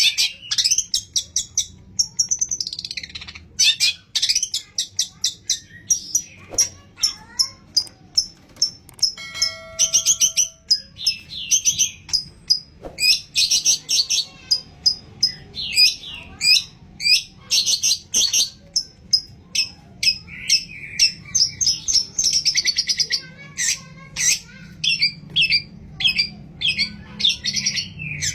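Long-tailed shrike (cendet) singing a fast, continuous chattering song of short, high notes, mixed with imitations of other birds' calls.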